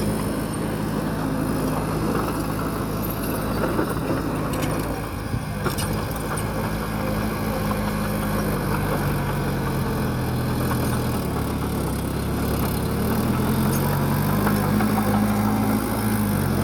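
Diesel engine of heavy earthmoving machinery running steadily, with a few light clanks. Its revs drop about two-thirds of the way through, then rise again near the end.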